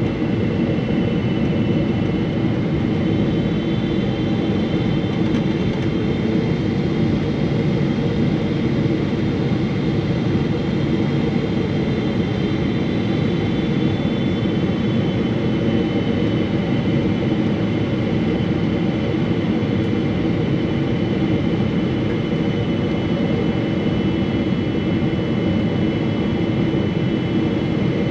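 Steady cabin noise inside a Boeing 777-300 airliner: the hum and rush of its jet engines and airflow, with faint high whining tones above it.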